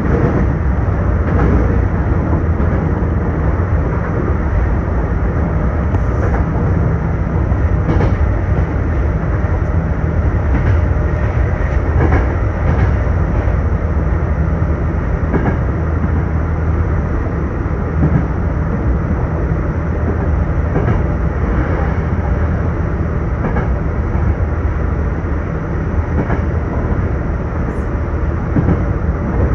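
Sanyo Electric Railway train running along the track, heard from inside the car: a steady rumble of wheels on rail with scattered clicks at rail joints and points.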